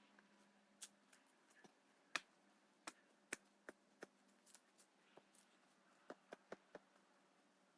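Faint, sparse crackles and pops from burning tree stumps: a dozen or so sharp snaps at irregular intervals, with a faint background hiss between them.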